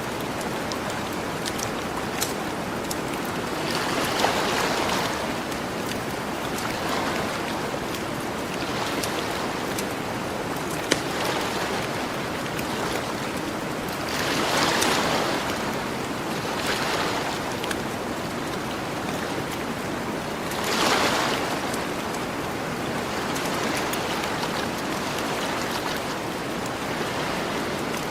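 Ocean waves washing onto a beach, a steady surf hiss that swells three times as waves break, with the sharp pops of a campfire crackling now and then.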